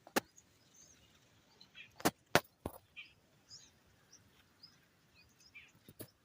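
Faint scattered bird chirps outdoors, broken by a few sharp clicks or snaps: one just after the start, three close together about two seconds in, and one near the end.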